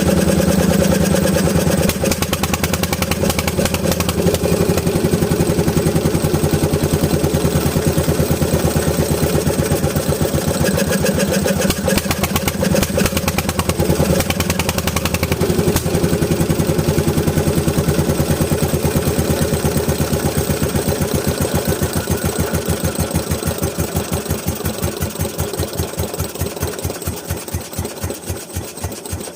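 Bernard Moteurs W14 engine running steadily with an even, rapid firing beat. Near the end the beats slow and spread out and the sound fades as the engine runs down.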